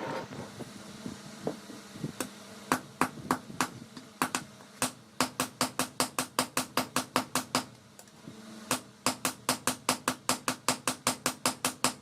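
Blacksmith's hammer striking leaf-spring steel on an anvil while forging a dao blade: scattered blows at first, then fast runs of about five ringing strikes a second, with a short pause about two-thirds of the way through. A faint steady hum runs underneath.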